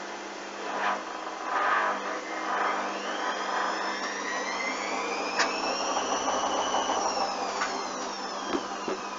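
Hoover washing machine's motor and drum winding up: a whine rising in pitch for several seconds, then levelling and falling away again over a steady hum. This comes as the machine tries to go into its intermediate spin with a drum full of suds.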